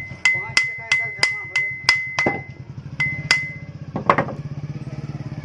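Hammer tapping on metal with a ringing note: about eight quick strikes, then two more after a short pause and a softer knock near the end, typical of driving a part home while refitting an electric planer's bearings and armature.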